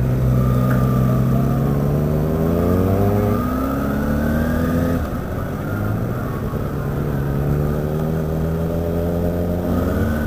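Motorcycle engine accelerating away from a stop, its pitch climbing steadily, then dropping at a gear change about three and a half seconds in and climbing again before another change near the end.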